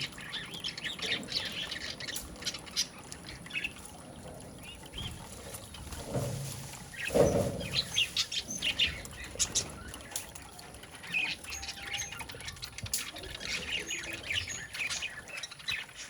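Pet budgerigar chirping and chattering in short, scattered chirps, with one louder, deeper sound about seven seconds in.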